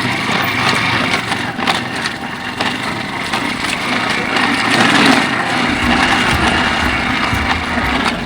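Small single-cylinder dual-sport motorcycle engine running steadily. Its low rumble grows stronger about two-thirds of the way through.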